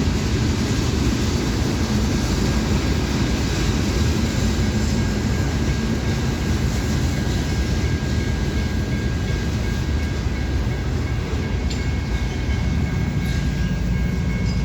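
Manifest freight train rolling past, with a steady rumble of wheels on rail and a thin steady high whine above it.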